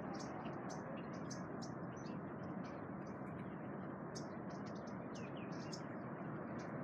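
Small birds chirping in quick succession, many short high chirps a second with a few falling calls about five seconds in, over a steady background hiss.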